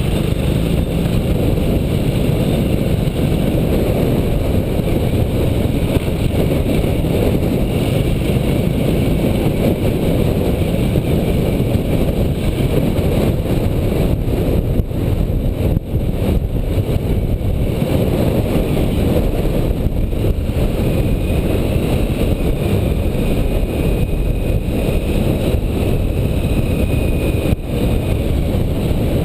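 Motorcycle running at a steady pace while being ridden, its engine and ride noise loud and constant.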